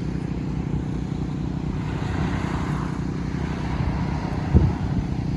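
A motor vehicle running steadily, a low engine hum with road noise, with one sharp thump about four and a half seconds in.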